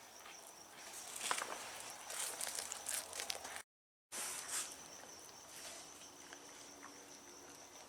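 Faint outdoor night ambience: a steady high insect chirr, with scattered soft crackles and rustles in the first half. The sound drops out completely for about half a second just before the middle.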